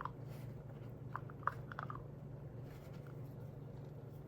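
A few light clicks and taps of a hard resin lid being worked onto a small resin trinket box, clustered in the middle, over a steady low hum.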